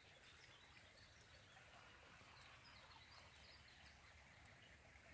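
Near silence: faint outdoor ambience with a string of short, distant bird chirps during the first few seconds.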